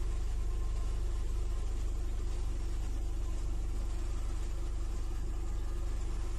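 Opel Meriva B's 1.4-litre turbocharged petrol four-cylinder (A14NEL, 120 hp) idling steadily, still warming up after a cold start.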